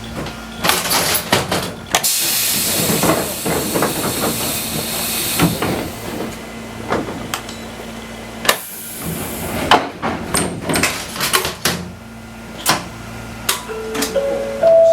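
Fukui Railway Type 200 train at a stop: a hiss of released compressed air lasting a few seconds, with scattered knocks and clunks from doors and fittings. Near the end a rising four-note chime begins.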